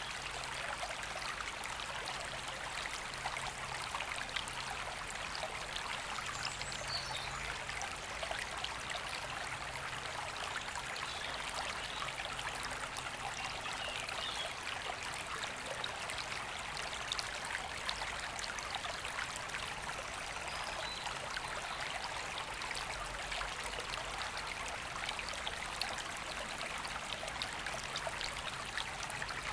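River water running steadily, a continuous rushing with fine splashing.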